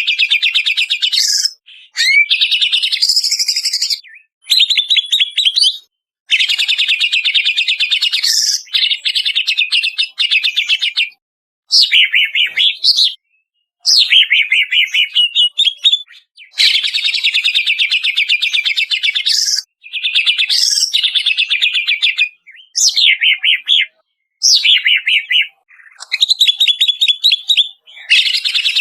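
Greater green leafbird (cucak ijo) singing in loud phrases of rapid trills and sweeping whistled notes, each lasting one to four seconds, with short pauses between them.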